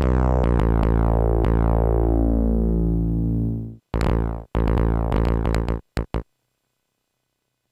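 Stored samples from an MFB-501 Pro drum machine playing back. First a deep, buzzy sustained tone holds a steady low pitch while its brightness sweeps downward, and it cuts off just before four seconds in. A few short sample hits follow, then it falls silent.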